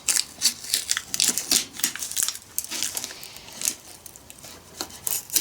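Shrink-wrapped plastic packaging crinkling and tearing in irregular crackles as it is peeled and pulled by hand to free a thin paper gasket.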